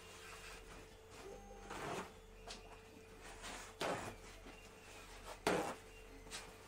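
A few short scraping or rustling handling noises over a faint steady hum. The loudest comes about five and a half seconds in.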